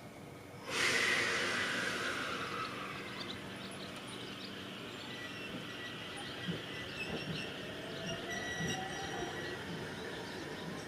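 Electric train on the JR Minobu Line: a sudden loud rush of noise about a second in, then steady running noise with a thin high squeal and scattered clicks. Later a low whine rises slowly in pitch.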